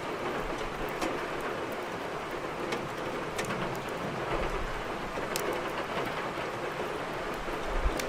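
Steady rain hissing, with the crackling of a wood fire: scattered sharp pops, the loudest near the end.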